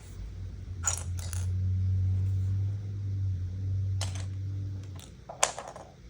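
Lego pieces being handled, with a few sharp plastic clicks and clacks spread out, the loudest near the end. A steady low hum runs underneath and stops about five seconds in.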